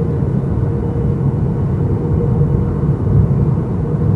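Cabin noise of a Boeing 737-800 in flight, heard from a window seat: a steady rush of airflow and the CFM56 engines' drone, with a faint steady hum over it, during the descent toward landing.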